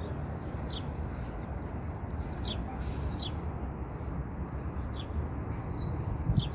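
Small birds chirping in short, high, falling notes about once a second, over a steady low rumble of outdoor background noise, with a brief low bump near the end.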